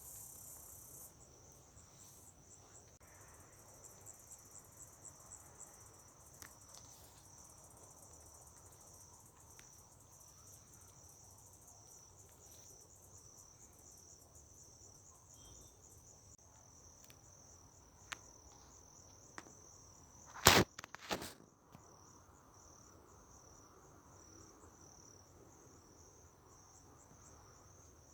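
Crickets chirping in a steady, evenly pulsing high trill. About two-thirds of the way through, a few sharp knocks, the loudest sound here, break in briefly.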